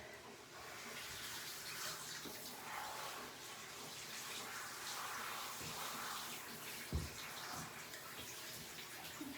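Water running from a bathing hose in a tub, a steady hiss that swells and fades a little as it is moved over a dog's coat. A single dull knock about seven seconds in.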